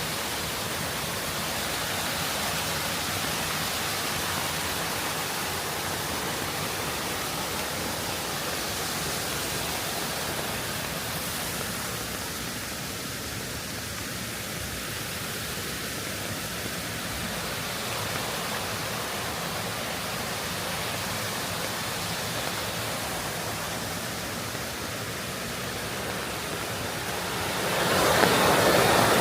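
Steady rushing of water with no distinct events, growing noticeably louder near the end.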